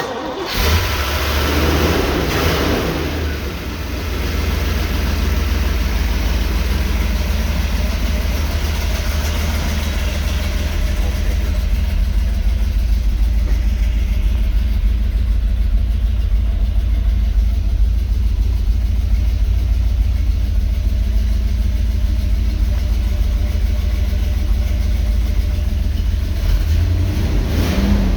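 1968 Corvette's 427 big-block V8 firing up from cold: it catches suddenly and runs raggedly loud for the first few seconds, then settles into a steady, loud, low-pitched idle.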